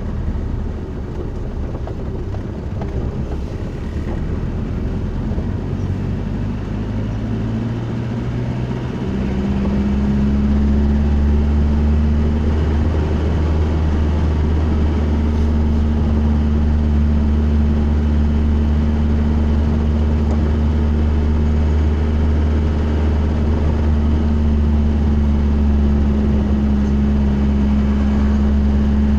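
A vehicle's engine and drivetrain droning steadily. Its pitch climbs about eight seconds in as it speeds up, then holds steady at a higher, louder drone.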